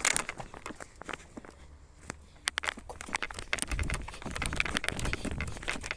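Footsteps outdoors, with many short crackles and rustles underfoot and a low rumble from about halfway through.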